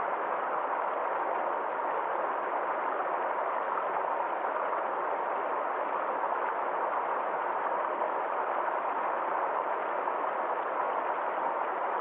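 Forest stream flowing in a steady, even rush of water, with no separate splashes or drips standing out.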